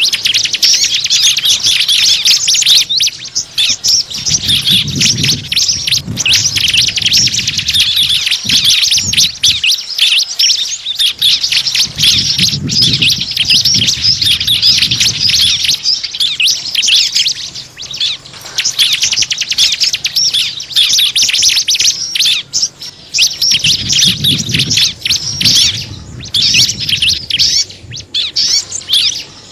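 Small birds twittering in a dense, rapid stream of high chirps, played as a lure call to attract small birds. A low rumble comes and goes underneath.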